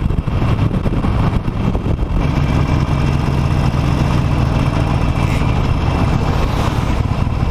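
Harley-Davidson Nightster's liquid-cooled 975 cc V-twin engine running while the bike is ridden, settling into a steady low note about two seconds in.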